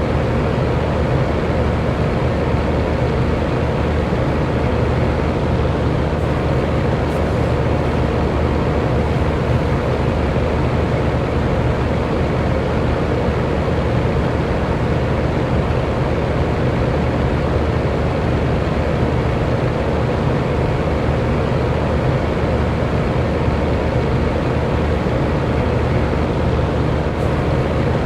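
Electric fan running steadily: a constant whooshing of moving air with a faint motor hum.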